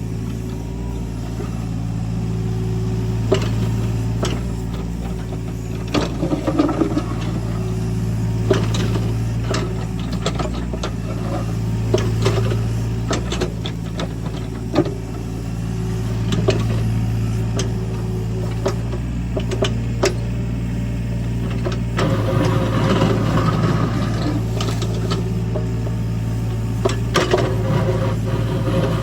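Engine of a heavy earthmoving machine running steadily under work, with scattered sharp clanks and knocks throughout; the engine sound gets heavier and noisier about three quarters of the way through.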